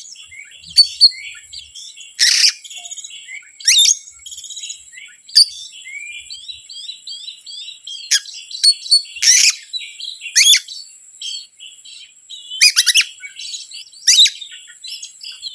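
Oriental magpie-robin (kacer) song: a rapid, varied run of chirps and whistles, broken every second or two by loud, sharp sweeping notes, over a thin steady high tone.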